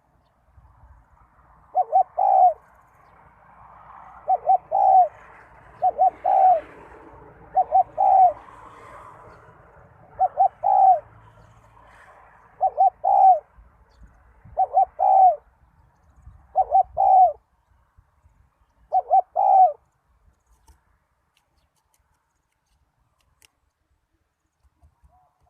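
Zebra dove cooing its contest song: nine phrases about two seconds apart. Each phrase is a couple of quick short coos run into a longer one. Fainter chirping from other birds sits behind the first half, and the cooing stops near the end.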